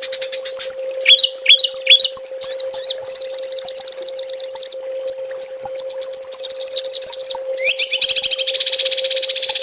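Small songbirds singing rapid-fire 'tembakan' phrases, as used in Indonesian bird-keepers' master recordings: a few quick rising chirps, then fast high trills with many notes a second, and a long dense trill starting near the end. A steady low hum runs underneath.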